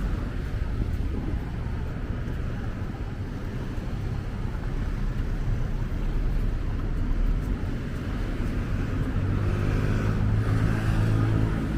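Steady city street traffic noise, with one vehicle's engine hum growing louder near the end as it comes close.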